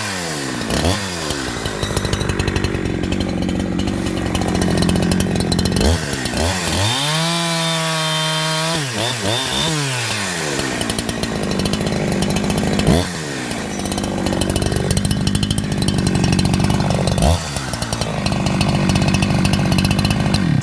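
A Holzfforma G372XP 70 cc two-stroke chainsaw is revving and cutting into a log. Its pitch climbs to a steady high whine off the wood and drops back several times under load. It still tends to bog down a little at the top end, a sign that its high-speed tune is not yet right.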